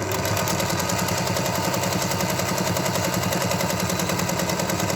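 Singer 201K electric sewing machine sewing at a steady high speed, its needle strokes making a rapid, even clatter.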